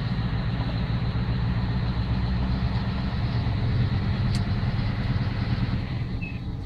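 Scania 164L's V8 diesel engine running with a steady deep rumble, swelling slightly and then easing off near the end.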